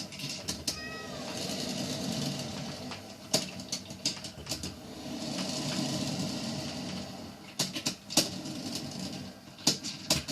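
Hamilton Beach 12-cup stainless steel electric percolator percolating: water bubbling up the stem and spattering over the coffee basket in swelling surges, with sharp ticks and pops throughout. The owner likens it to heavy ice and snow hitting a car or house and calls it not a loud noise.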